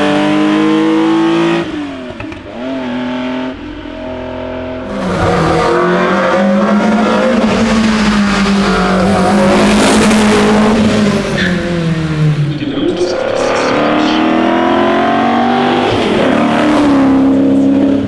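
Classic racing car engines revving hard under acceleration, their pitch rising and dropping sharply at gear changes. The first car fades away about two seconds in. A second, louder one comes up about five seconds in and runs hard, with a marked drop in pitch about twelve seconds in before it climbs again.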